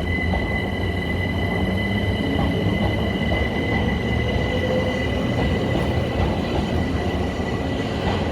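Southern class 377 Electrostar electric train moving at the platform: a continuous rumble of wheels and running gear with a steady high whine over it.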